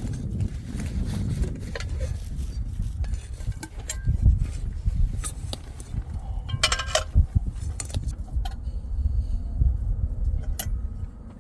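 Metal objects clinking and rattling over a steady low rumble, with a quick cluster of ringing clinks about seven seconds in.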